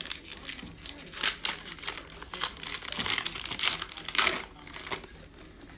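Plastic trading-card pack wrapper crinkling and tearing as a pack is opened by hand, in quick irregular crackles.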